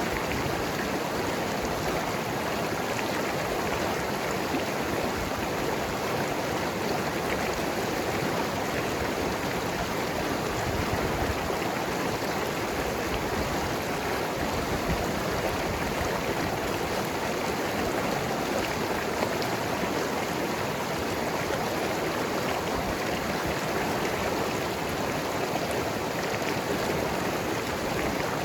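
Mountain river flowing and gurgling over rocks, a steady rushing of water.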